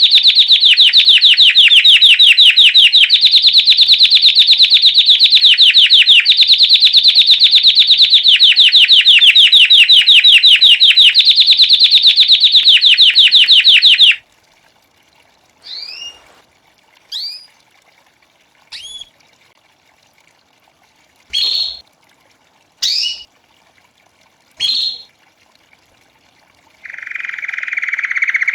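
Belgian canary singing its bell-like 'campainha' song: a loud, very fast ringing trill for about fourteen seconds, then six short upward-sliding chirps spaced a second or two apart, and a new trill starting near the end.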